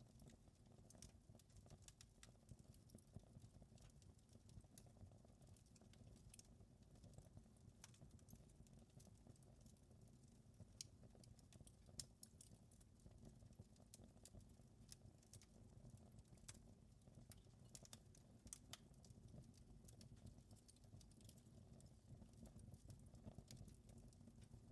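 Faint wood fire crackling in a fireplace: irregular sharp pops and snaps over a steady low rumble of the flames.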